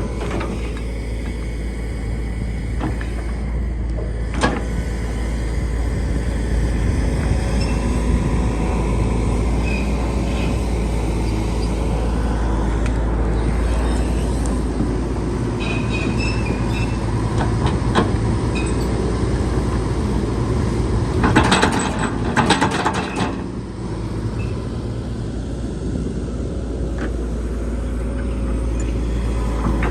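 Hitachi ZX135US-3 hydraulic excavator running steadily under load while digging and moving dirt, with a low engine hum and hydraulic whine. Occasional single knocks, and a short spell of clanking and scraping about two-thirds of the way through.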